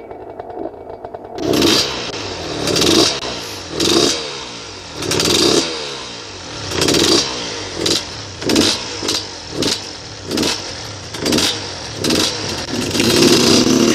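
Husqvarna SMS 125's two-stroke 125 cc engine running and being revved in repeated short throttle blips, about one a second, each rising and falling in pitch. The first second and a half is quieter, before the blipping starts.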